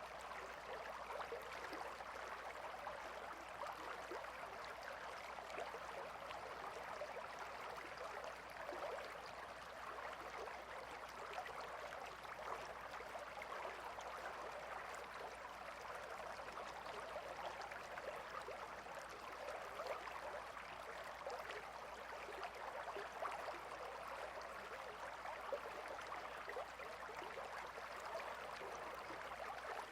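Gentle river water flowing and babbling, a steady dense trickle and splash.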